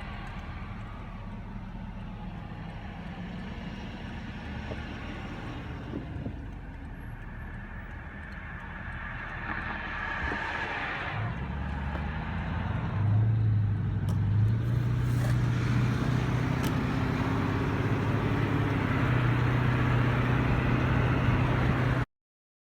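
A motor vehicle's engine running close by, over road traffic noise. A steady low engine hum swells about halfway through and stays loud, then the sound cuts off abruptly near the end.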